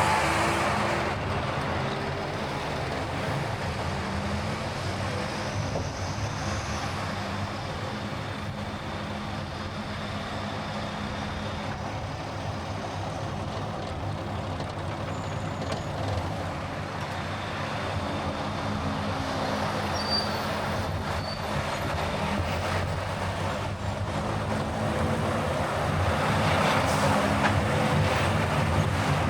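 A car driving along a road: steady engine and tyre noise with the engine's pitch shifting a little, growing louder near the end.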